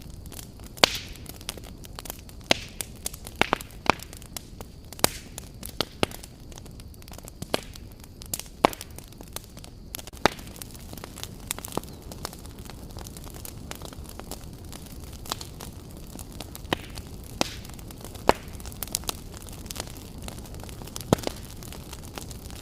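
Wood fire crackling: irregular sharp pops and snaps, several a second with a few louder cracks, over a steady low noise.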